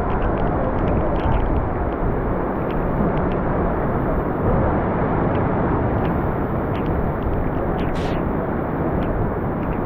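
Steady roar of floodwater pouring through a dam's open spillway gates.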